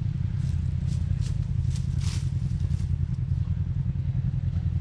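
Off-road vehicle engine running steadily at low revs, with a handful of short sharp clicks and knocks in the first two seconds or so.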